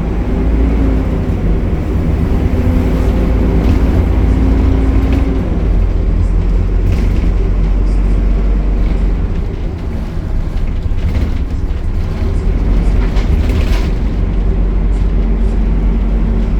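Optare Solo single-deck diesel bus running: a steady low engine drone with a held hum that fades about five seconds in and comes back near the end, and a few short rattles in between.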